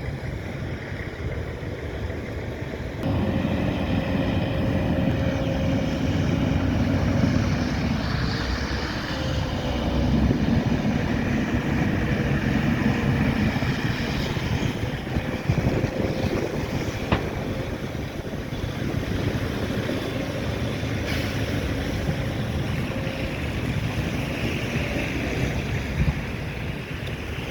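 A vehicle's rumble, louder from about three seconds in and easing off after the middle, with a faint steady whine and wind buffeting the microphone.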